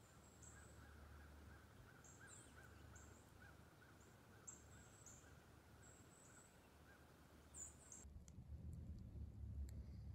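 Faint wild bird calls: scattered short high chirps over a lower call repeated about three times a second. Both stop abruptly at about eight seconds, leaving a faint low rumble.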